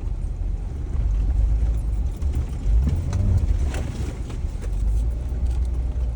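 Jeep driving slowly over a rough, holed off-road trail: a steady low engine and road rumble, with a few knocks and rattles from the body or suspension about three to four seconds in.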